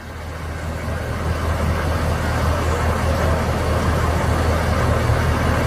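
A motor vehicle running: a steady low engine drone with road or cabin noise, growing louder over the first two seconds and then holding steady.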